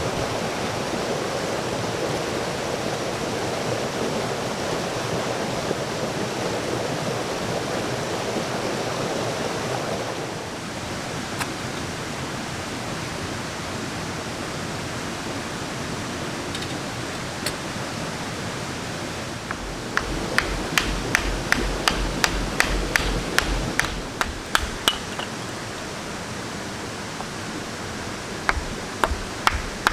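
A steady rushing noise, louder for the first third. From about twenty seconds in comes a run of sharp knocks, about two a second, with a few more near the end.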